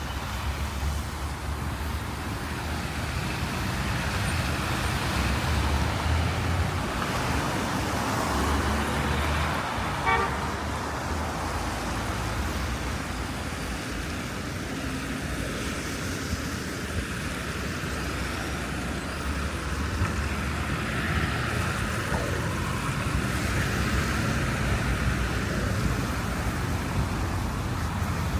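Road traffic on snow-covered city streets: a steady wash of tyre noise and engine rumble, with a brief horn toot about a third of the way through.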